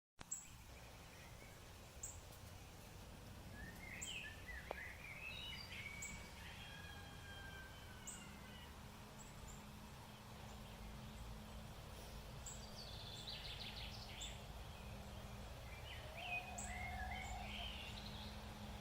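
Birds singing in short whistled phrases and trills, over a low background rumble. A low steady hum comes in about eight seconds in, and faint sharp ticks recur about every two seconds.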